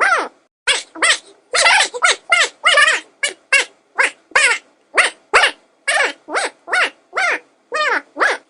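A dog barking over and over, about two to three barks a second, each bark short and falling in pitch.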